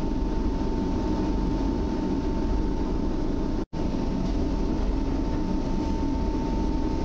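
Inside an EN57 electric multiple unit rolling slowly: a steady low rumble of the running train with a steady high whine over it. The sound cuts out for an instant a little past halfway, then carries on unchanged.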